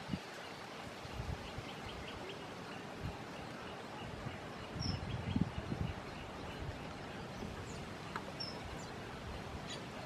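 Steady outdoor background hiss with a few short, faint, high bird chirps and a quick run of faint ticks, plus a few soft low thumps about halfway through.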